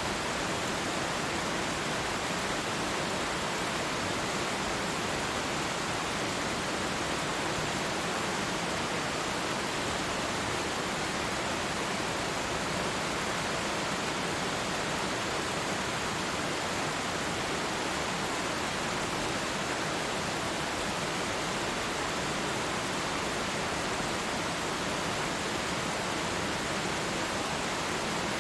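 Waterfall rushing steadily, two falls of water pouring into one even roar of white water.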